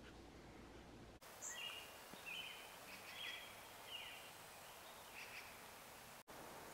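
Faint bird chirps: about half a dozen short, high calls, some falling in pitch, over a trail camera's steady hiss.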